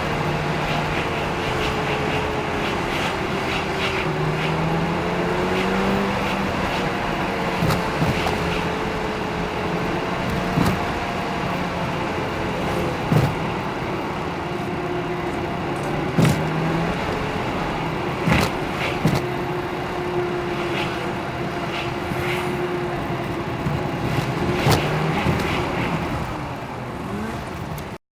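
A motor running steadily, its pitch drifting slightly up and down, with scattered sharp knocks.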